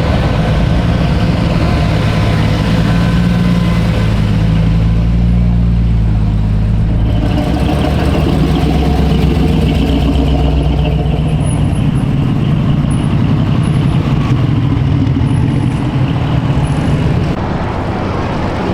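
A car engine running steadily, a low hum whose pitch shifts about seven seconds in.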